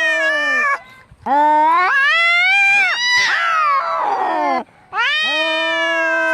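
Angry cat caterwauling: long, drawn-out wavering yowls, three in a row with short breaks between them, the middle one turning harsh and raspy before it dies away. The sound is typical of a cat fight or a cat threatening another.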